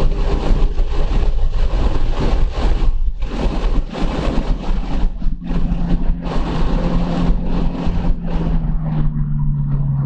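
2014 Subaru BRZ's 2.0-litre flat-four running hard at track speed, heard from inside the cabin under heavy wind and road noise. Near the end the engine note drops slightly in pitch as the car slows for a corner.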